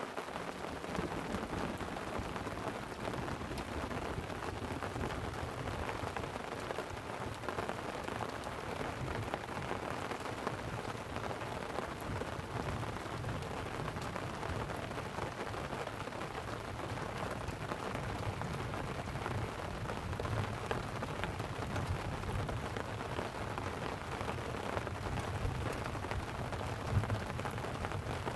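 Light rain falling on a tent: a steady hiss of many small drops, with a low rumble underneath.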